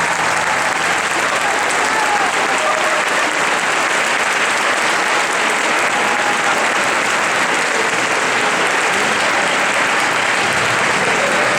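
Audience applauding steadily, with a few voices calling out now and then.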